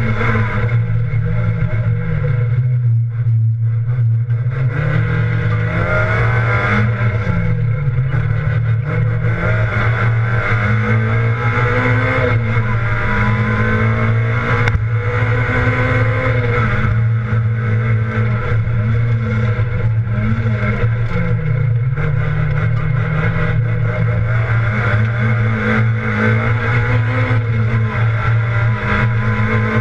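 Rally car engine at competition pace, heard from inside the cabin: a loud, steady drone, with the revs climbing and dropping again and again as the car accelerates and lifts.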